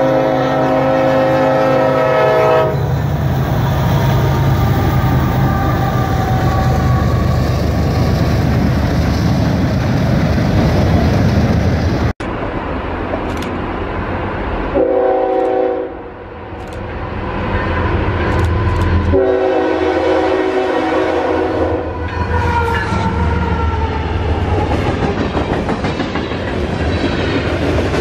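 Diesel freight train horn sounding a several-note chord over the rumble of the locomotives, which runs on after the horn stops. After a cut, another freight train sounds its horn in a short blast and then a longer one as it approaches, followed by locomotive rumble and freight cars rolling past.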